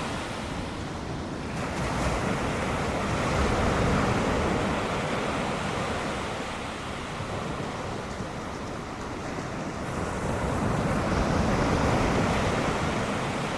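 Ocean surf: waves breaking in a steady rushing wash that swells and eases twice.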